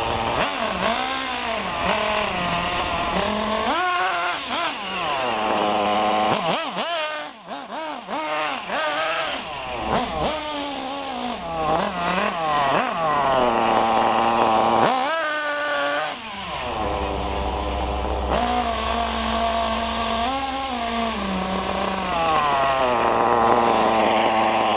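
Thunder Tiger radio-controlled car's small engine, revved up and down over and over, its high buzzing pitch rising and falling as the car speeds up and slows.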